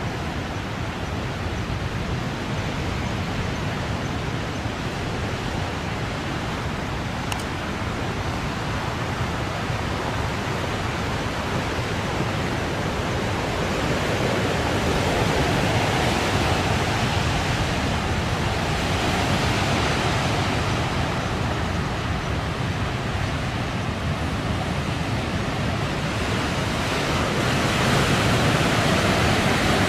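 Typhoon-driven heavy surf breaking in a continuous rush of noise, with wind, swelling louder about halfway through and again near the end.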